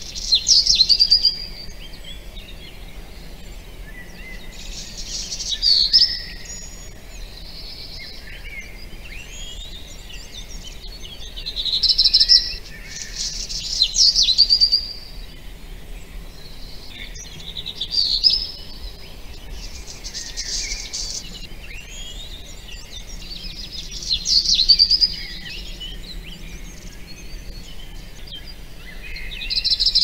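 Forest birdsong: a loud, high-pitched song phrase repeated about every five or six seconds, with fainter chirps and calls from other birds in between.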